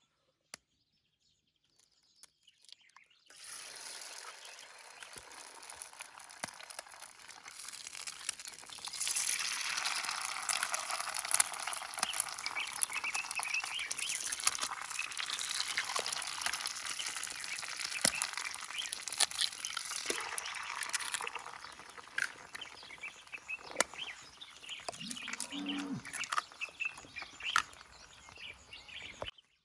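Omelette frying in a hot pan over a campfire: a steady sizzle with pops and crackles that swells about 8 seconds in and eases after about 21 seconds.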